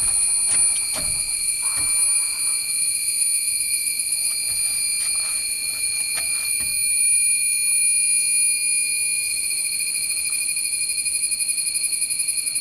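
Cicadas droning loudly and steadily at a high pitch, the drone turning to a rapid pulsing near the end. A few faint taps in the first couple of seconds.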